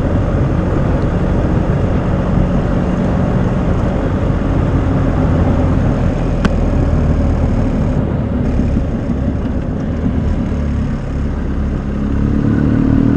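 BMW motorcycle-and-sidecar engine running steadily on the move, its note rising near the end as it picks up speed.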